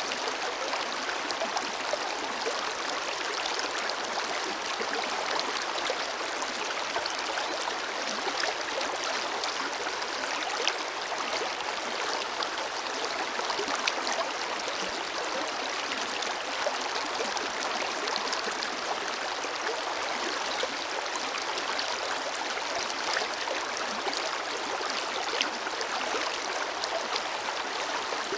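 Forest river flowing steadily over rocks, an even rush of water with many small splashes and gurgles.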